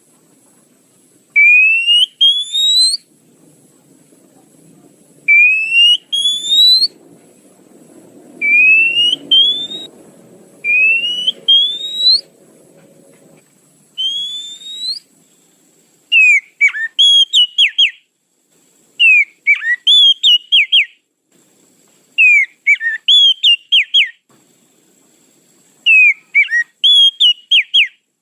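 Oriental magpie-robin (kacer) lure calls: a pair of rising whistled notes repeated every two to three seconds. About halfway through this changes to a phrase of quick falling notes and short clipped chips, repeated every few seconds.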